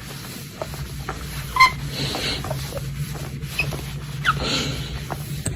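A bird's short squeaks and hissy noises over a steady low hum; the loudest squeak comes about one and a half seconds in, and a rising squeak comes near the end.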